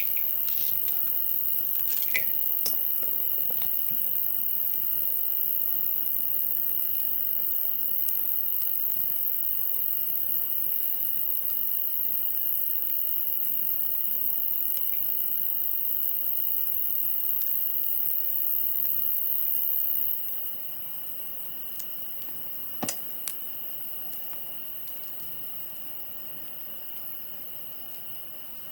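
Wood campfire burning with a soft hiss and scattered sharp crackles, under a steady high insect trill. The hiss drops noticeably about twenty seconds in.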